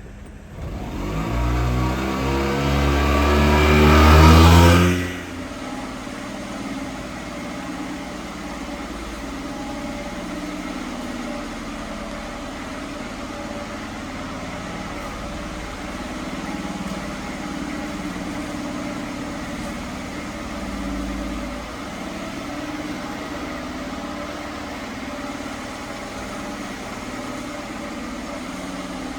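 1987 Honda Acty mini truck's engine revved once, climbing in pitch for about four seconds, then dropping back to a steady idle for the rest.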